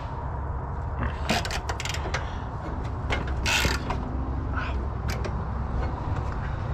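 Hand socket ratchet clicking in short runs as bolts are loosened, with a few clinks and scrapes of metal tools.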